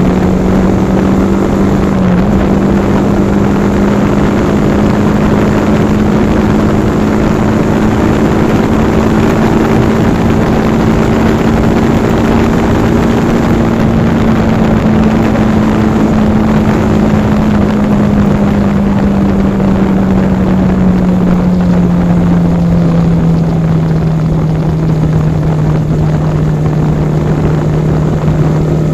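Yamaha R15 V4's single-cylinder engine running under way at a steady cruising speed, its pitch easing down gradually over a few seconds past the middle as the bike slows, over a steady rush of wind and road noise.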